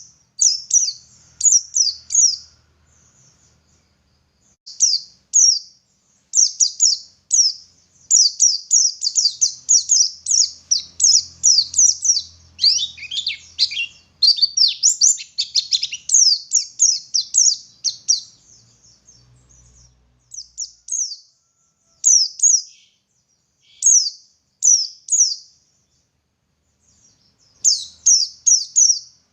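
White-eye (pleci) singing: rapid runs of short, high, down-slurred notes in bursts with brief pauses between them, and a denser twittering stretch about halfway through.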